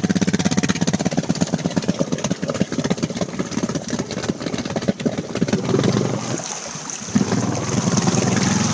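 Small single-cylinder-sounding ATV engine running with a fast pulsing idle, then picking up revs in the second half as it is driven into deep floodwater.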